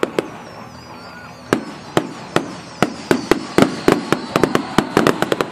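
Fireworks going off: a couple of sharp bangs at first, then from about a second and a half in a quickening volley of loud cracks, several a second, densest near the end. A faint high whistle wavers and falls slowly during the first two seconds.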